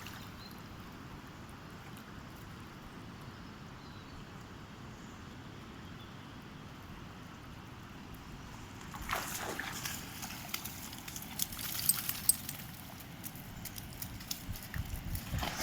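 Steady quiet outdoor river background, then from about nine seconds in a run of irregular splashes and sharp clicks as a dog goes into the river and swims.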